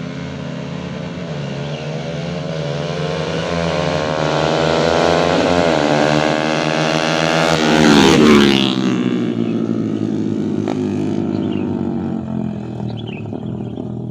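Motorcycle engines at full throttle in a drag race, a bored-out Yamaha MX against a stock Honda Sonic, their pitch rising as they accelerate. They pass close about eight seconds in, the pitch dropping sharply, then fade away.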